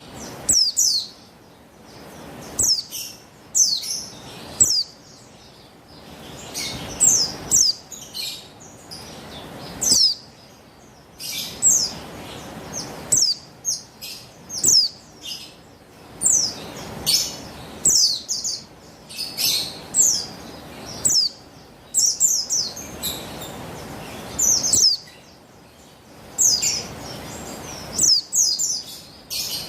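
Female buxtoni white-eye (pleci) calling: clusters of short, high, downward-sliding chirps repeated every second or two, over a steady hiss. These are calls used to lure and excite males into singing.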